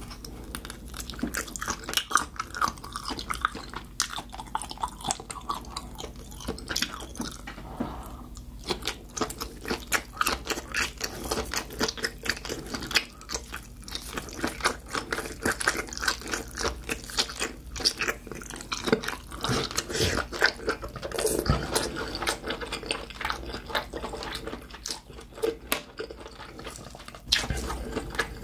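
Close-miked chewing and biting of grilled octopus from a skewer: a steady run of wet mouth clicks and chews, several a second.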